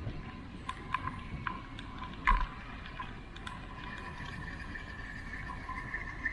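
Irregular sharp metallic clicks, one or two a second with a louder one a little over two seconds in, while a steady high insect buzz grows in from about the middle.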